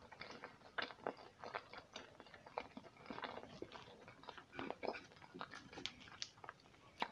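A person chewing a mouthful of sushi roll close to a clip-on microphone, heard as faint, irregular small wet mouth clicks and smacks.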